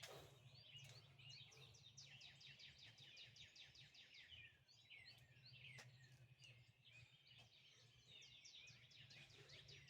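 Faint birdsong: rapid runs of short, high chirps repeated again and again over a low, steady hum.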